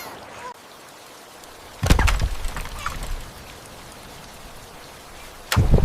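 Two heavy thuds about three and a half seconds apart, the first trailing off over about a second, over a steady faint hiss.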